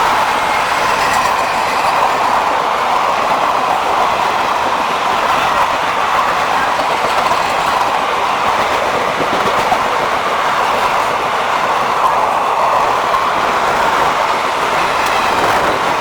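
Passenger train coaches rolling past at speed: a loud, steady noise of steel wheels running on the rails.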